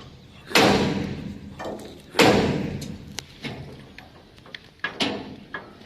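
Heavy hammer strikes on steel bridge work, bolt renewal on a railway bridge. Two loud blows about a second and a half apart, with several lighter knocks between and after, each blow ringing and fading slowly.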